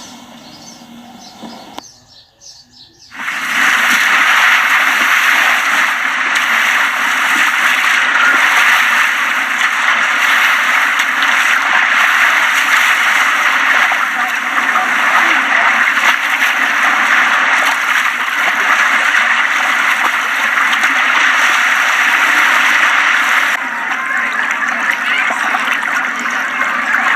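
Steady rushing, splashing water noise, starting abruptly after a short silent break about three seconds in and easing slightly near the end.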